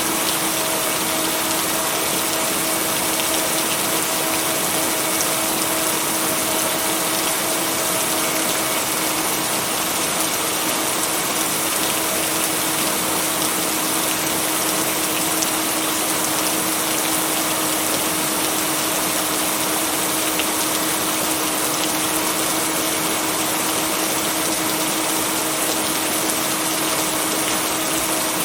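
Steady heavy rain, an even rushing noise with no thunder, with a constant low hum underneath.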